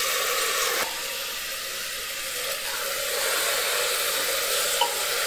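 Basmati rice and fried onions sizzling steadily in a pressure cooker as the rice is poured in and stirred over a low flame.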